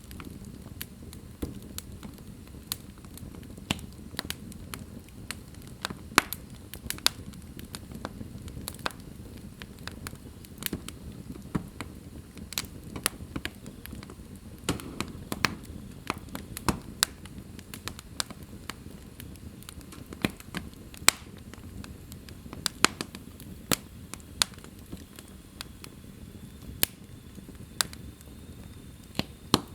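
Wood fire in a fireplace crackling, with sharp pops coming at uneven intervals over a steady low rumble of the flames.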